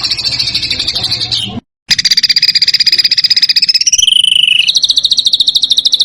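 Songbird's harsh, very fast buzzy trills, edited together as a bird-song tutor recording. The sound cuts out briefly about one and a half seconds in, then resumes as a rapid trill that shifts pitch around four seconds in.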